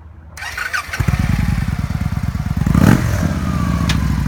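2014 Victory Vegas 8-Ball's 106 cubic inch fuel-injected V-twin, with slash-cut pipes, starting up and catching about a second in, then idling with an even lumpy pulse. There is one short throttle blip near the three-second mark.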